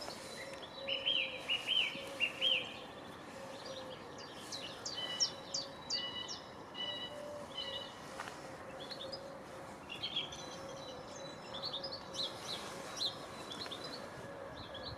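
Songbirds chirping and singing in short runs of quick, high notes, over a faint steady hum.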